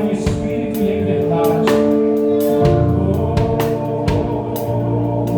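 Live gospel band playing: held keyboard chords over electric bass, with drum hits and cymbal crashes at a regular beat.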